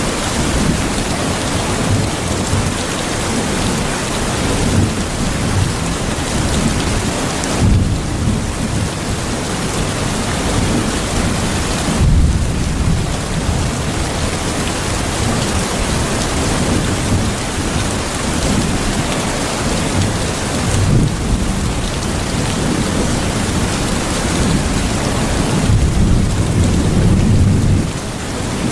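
Steady heavy rain, with low rumbles of thunder swelling underneath now and then.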